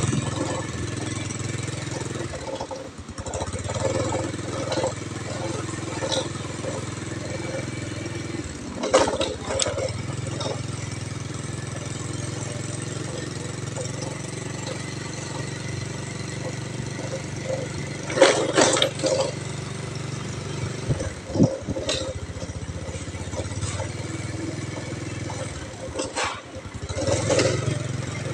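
Small motorcycle engine running steadily at low speed as it rolls along, with a few brief louder swells.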